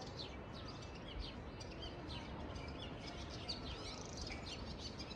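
Small birds chirping, many short, quick high chirps repeating over a steady background hiss.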